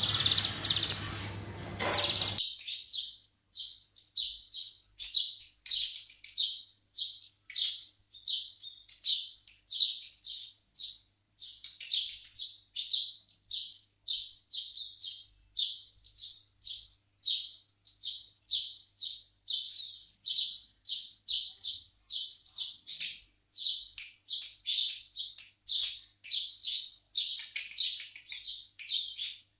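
A loud burst of noise for the first two seconds or so, then a pet Eurasian tree sparrow chirping over and over, about two short chirps a second without pause.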